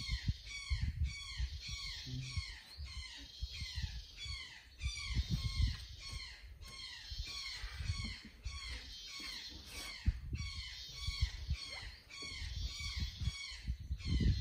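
A bird calling over and over, a fast run of falling chirps at about two a second, with dull low thumps and rumble underneath.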